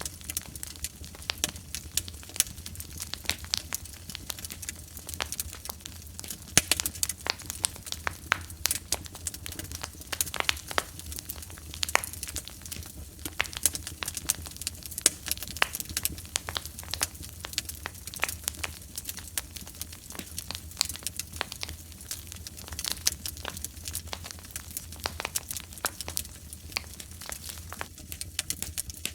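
Wood fire in a fire pit crackling, with dense irregular sharp pops over a low steady rumble.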